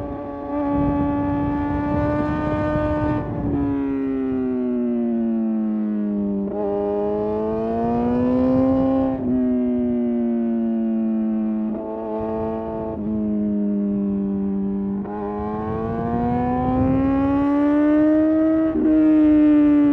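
Suzuki GSX-R750 inline-four engine and exhaust under way, its high-pitched note rising and falling as the rider accelerates and eases off through the bends, with brief breaks about every two to three seconds where gears change.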